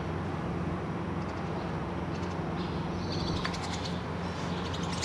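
Rapid, high-pitched bird chirping in quick trills, starting about two seconds in and growing busier toward the end, over a steady low mechanical hum.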